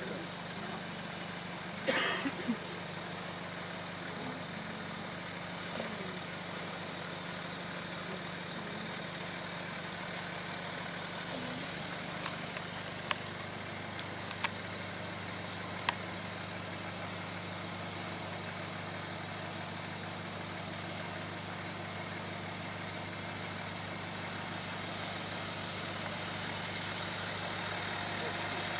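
Land Rover Discovery 3 engine running steadily at low revs as the vehicle crawls over a rutted, rocky track, with a few sharp knocks about two seconds in and again around the middle. It grows slightly louder near the end as the vehicle comes closer.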